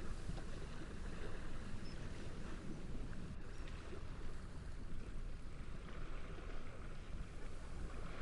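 Steady wind with gentle waves washing at the shore, a deep rumble of wind underneath. A faint, short high chirp about two seconds in.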